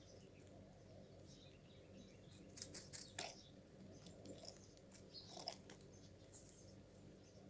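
Small birds chirping faintly, with a cluster of sharper, louder chirps or clicks about three seconds in and again at about five and a half seconds, over a steady low hum.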